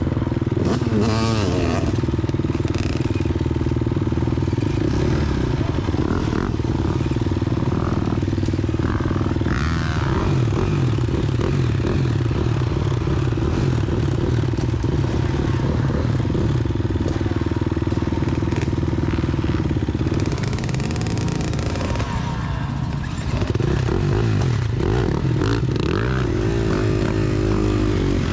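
Dirt bike engines running, with the nearest a Gas Gas EX250F's single-cylinder four-stroke, idling and being revved in short blips. The sound eases off briefly about three quarters of the way through, then picks up again.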